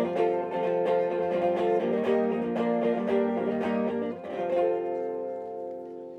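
A plucked string instrument, strummed in a steady rhythm, then a last chord struck about four and a half seconds in and left to ring out and fade: the close of a song.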